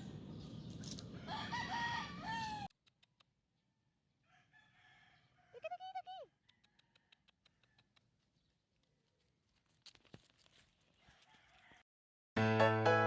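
Rooster crowing once about six seconds in, a call that rises and then falls. Before it, a couple of seconds of outdoor noise with short bird calls cut off suddenly. Music starts near the end.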